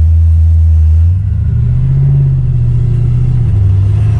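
Small-block Chevy V8 with a big cam and high compression in a 1964 Chevy Nova SS, heard from inside the cabin. It runs at a steady low note, then the revs climb about a second in and hold at a higher note as it accelerates.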